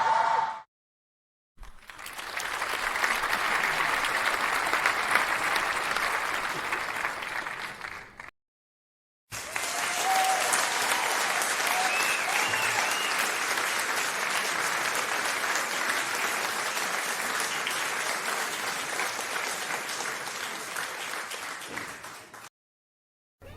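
Two applause sound effects, one after the other with about a second of silence between them: a shorter burst of clapping, then a longer round of applause with a few brief cheers over it a couple of seconds in.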